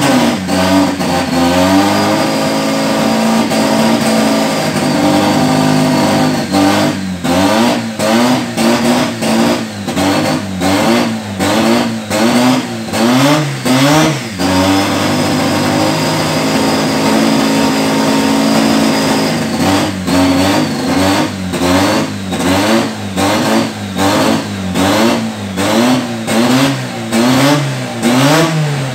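Subaru EJ20 turbo flat-four, built for about 1000 hp, free-revving under tuning. It is twice held at a steady raised speed for about five seconds, with a thin high whine over it. Between these it is blipped in quick runs, the revs rising and falling about once a second.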